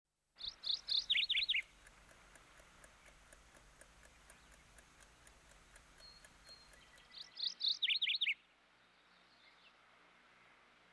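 A songbird singing two short phrases about seven seconds apart, each a few high repeated notes followed by a quick run of downward-sweeping notes, over faint open-air ambience with a faint rapid ticking underneath.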